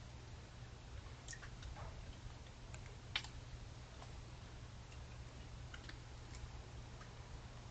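Faint, irregular clicks and ticks over a low steady hum, with one sharper click about three seconds in.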